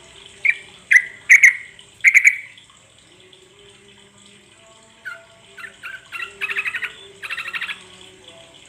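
Yellow-vented bulbul (trucuk) calling: four loud, short notes in the first two and a half seconds, then after a pause a run of quicker notes that ends in two fast chattering phrases. A faint steady hiss lies underneath.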